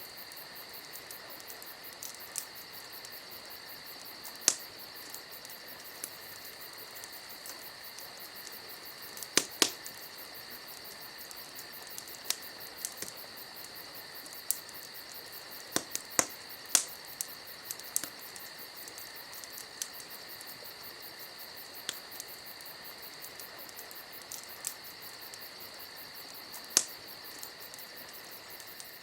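Campfire crackling, with sharp pops at irregular intervals, a few of them much louder than the rest. Under it runs a steady high-pitched insect trill.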